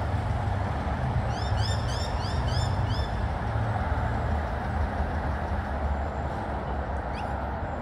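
A bird calling in a quick run of short, rising, high chirps, about four a second, over a steady low rumble; one more rising note comes near the end.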